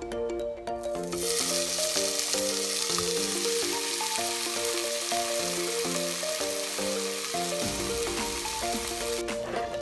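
Beef burger patties sizzling in a hot cast-iron sizzler pan, starting about a second in as they go down and cutting off suddenly near the end. Background music plays throughout.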